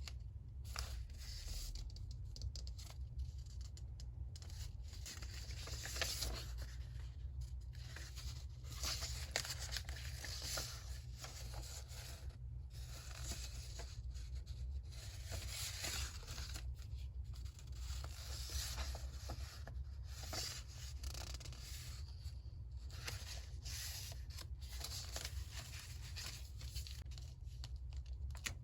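Paper being torn and handled, in short irregular strokes, over a low steady hum.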